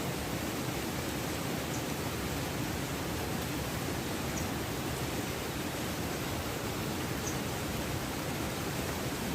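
Steady, even rushing of water, with a few faint short high ticks.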